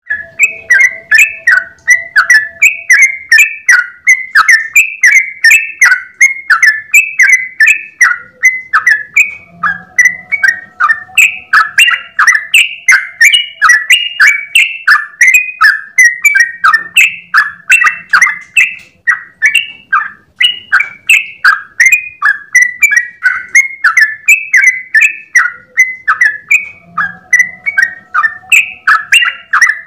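Yellow-vented bulbul (trucukan) singing a long, unbroken run of short bubbly notes, about two or three a second, without pause.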